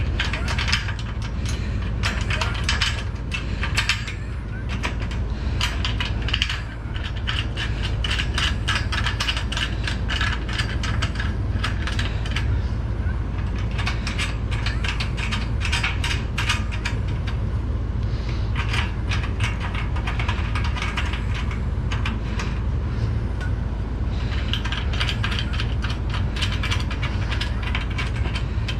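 Small metal parts and fasteners clicking and clattering almost without a break, ratchet-like in places, during assembly of a CNC router table frame, over a constant low hum.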